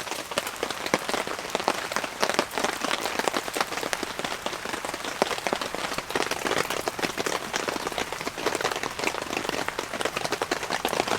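Heavy rain falling on a tent, heard from inside as a dense, steady patter of drops on the fabric.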